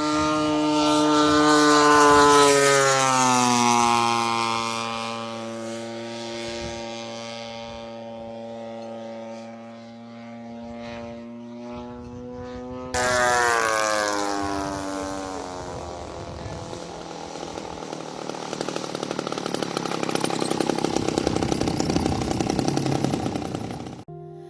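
Radio-control model aeroplane's glow engine passing by twice, its pitch dropping as it goes past, with a steady high note between the passes. After an abrupt cut about halfway through, a second pass drops in pitch, then the engine sound grows louder again toward the end.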